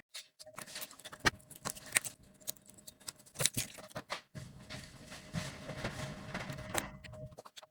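Irregular small clicks and taps from handling hard objects at a phone repair bench, with a faint steady tone underneath and a stretch of rustling in the second half.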